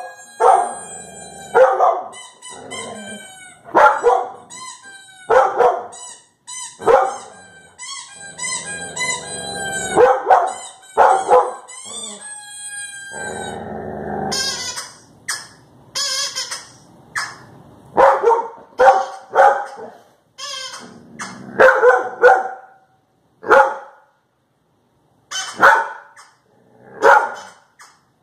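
High, wavering pitched sounds played from a speaker repeat in short runs, then from about halfway a dog barks again and again in short, separate barks.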